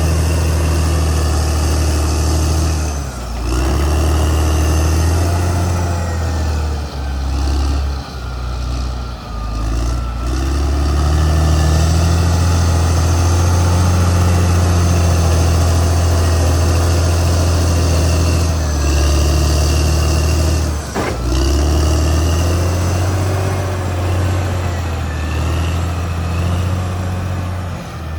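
Caterpillar D6R XL bulldozer's diesel engine running steadily under working load, easing off briefly a few times, with higher whining tones from the machine above the engine hum.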